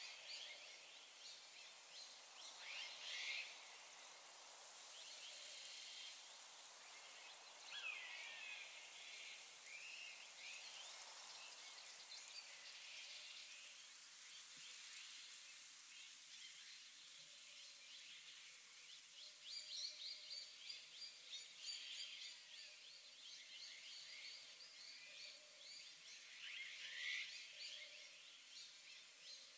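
Faint open-air ambience: distant birds chirping with short, gliding calls over a soft steady hiss, the calls turning into faster repeated notes in the second half.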